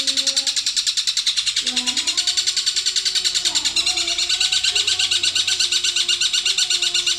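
Songbird master recording: a rapid, even chatter of high notes, about ten a second, repeated without a break over a slow, gliding low melody.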